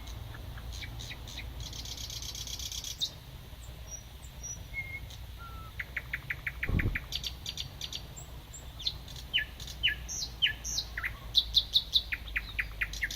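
Thrush nightingale singing: phrases of fast repeated notes and dry rattling trills, with short whistles between them. A single low thump comes about halfway through.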